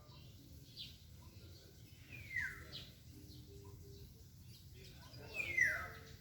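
Wild birds calling: two louder calls that sweep down in pitch, about three seconds apart, with short faint chirps between them.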